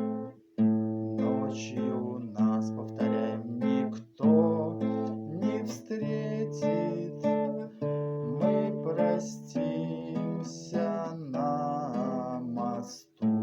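Acoustic guitar played in waltz time (3/4), an A-minor song accompaniment: a bass note followed by plucked chords, repeating about every second.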